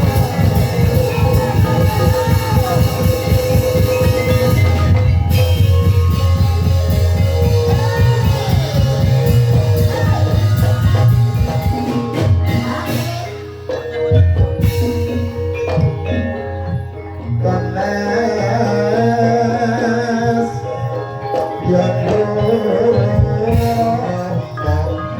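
Gamelan-style ebeg accompaniment music: mallet-struck keys over a fast, driving drum rhythm, with a voice singing gliding phrases. The music thins briefly about halfway through, then picks up again.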